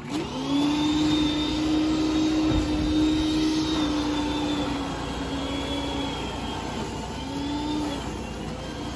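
A motor running at a steady pitch, spinning up in the first moment, then dipping and recovering briefly near the end.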